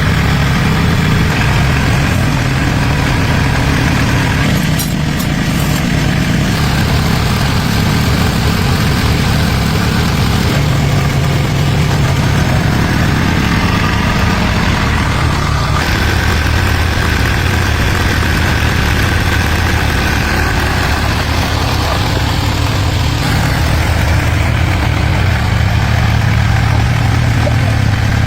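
Tractor engine idling steadily, its low hum broken by several abrupt edit cuts.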